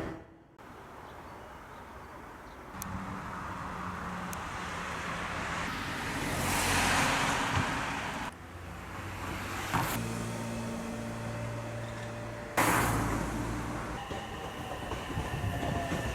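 Train sounds at a railway station, in several short cuts: a steady low motor hum, and a broad rush of a train running past that swells and fades in the middle.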